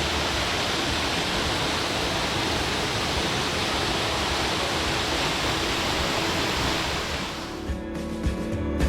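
Waterfall pouring steadily, an even rush of falling water. About seven and a half seconds in it fades out and background music begins.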